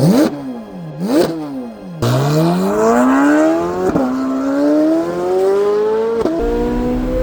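Chevrolet C8 Corvette Z06's 5.5-litre flat-plane-crank V8 revved twice, then pulling hard through the gears: a long rising pitch that drops sharply twice at the upshifts.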